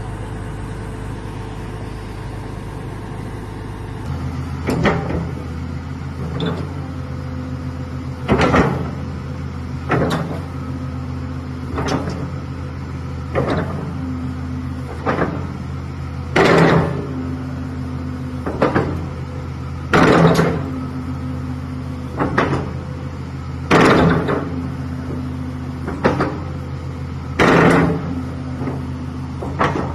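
SANY 365 excavator's diesel engine running steadily. About four seconds in its note changes as the hydraulics are put to work, and then short loud bursts of hydraulic noise come every one to two seconds as the machine is operated.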